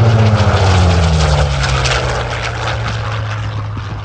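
Piston-engined fighter aircraft making a fast low pass. The engine is loudest as it goes by, and its pitch drops over the first two seconds as it passes, then levels off and fades as it moves away.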